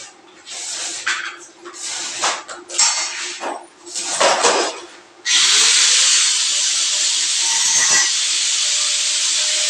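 Irregular knocks and rustles, then about five seconds in a loud, steady hiss starts suddenly: a power sprayer's high-pressure spray jetting from the nozzle.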